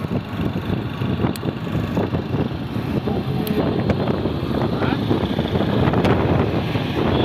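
Steady rumble of a moving passenger train, with indistinct voices in the background.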